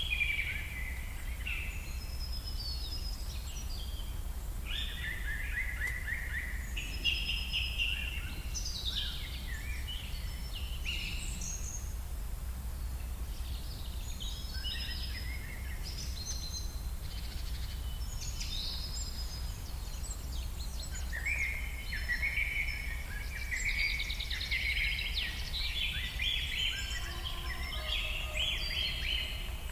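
Several birds chirping and singing in quick overlapping phrases throughout, over a steady low rumble.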